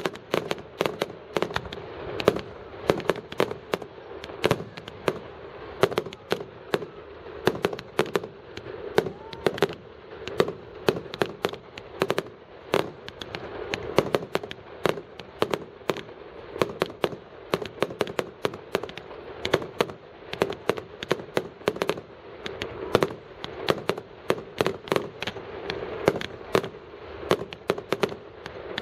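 Fireworks going off in a continuous barrage of sharp bangs and cracks, several a second, irregular and unbroken.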